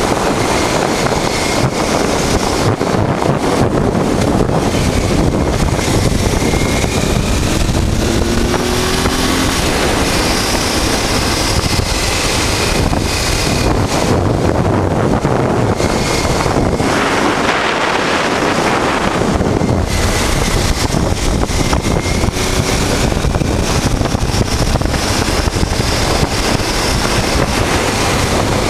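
Honda Transalp motorcycle's V-twin engine running at road speed under heavy wind noise buffeting the microphone, steady with a few faint shifts in pitch.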